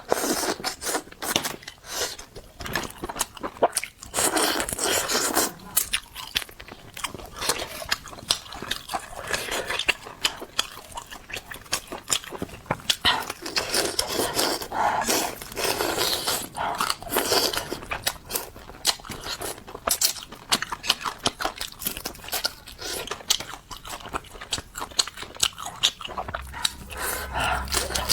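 Close-miked chewing and biting of food: a continuous run of crisp crackles and crunches.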